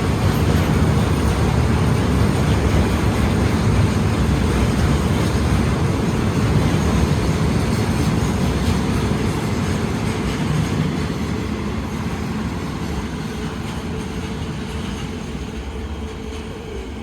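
KTM Kargo metre-gauge freight train rolling past, a dense, steady noise of wheels on rail that fades gradually over the last several seconds as the train moves away.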